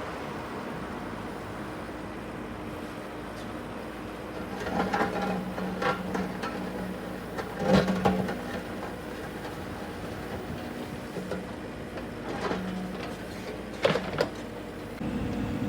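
An engine running steadily, with several clanks and knocks, the loudest about halfway through and two more close together near the end.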